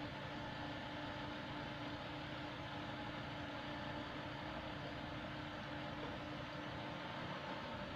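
Heavy diesel engine of earthmoving machinery idling steadily, with a constant low hum.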